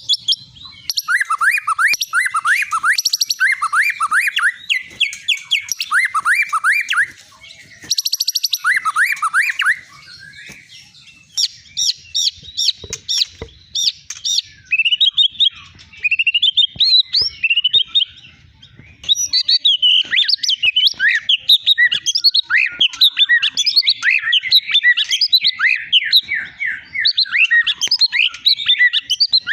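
White-rumped shama (Medan long-tailed murai batu) singing a long, varied song: runs of quick falling notes alternate with very high rattling trills and whistled phrases, with a few brief pauses, and the song is densest near the end.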